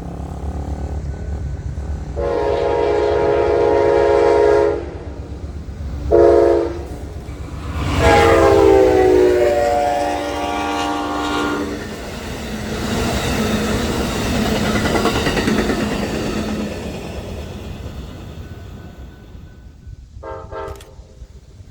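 Locomotive air horn sounding a chord in a long, a short and a long blast, the last one dropping in pitch as the train passes: the end of the long-long-short-long grade-crossing warning. The rumble and rattle of the passing train follows and fades, with a brief horn toot near the end.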